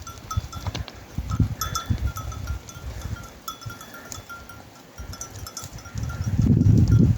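Small livestock bells on a moving flock of sheep and goats, clinking and ringing in short, uneven strokes. A low rumble underneath swells near the end.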